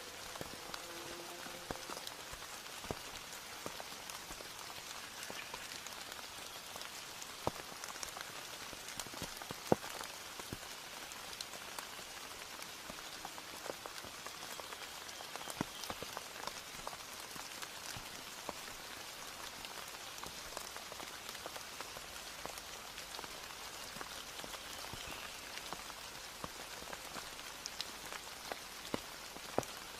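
Steady rainfall: an even hiss of rain with many separate drops tapping close by, a few of them sharper and louder than the rest.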